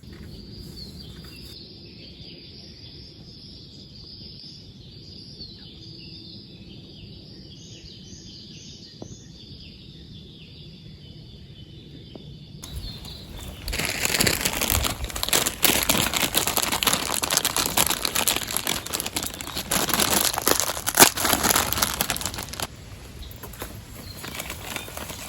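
A steady, high-pitched chirring in the first half, followed by loud, close rustling and crinkling from about 13 to 22 seconds in, like material being handled.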